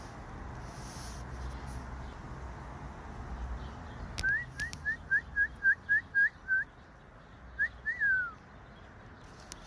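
A bird whistling a quick run of about nine short, clear rising notes starting about four seconds in, then after a brief pause two more rising notes and one longer falling note.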